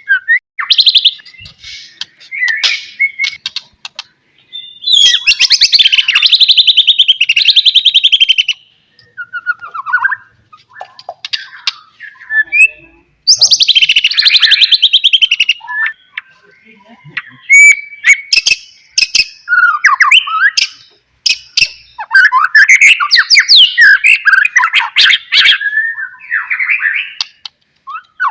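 White-rumped shama singing a varied song of clear whistled phrases and harsher chattering notes, broken by long fast rattling trills at about five and thirteen seconds in.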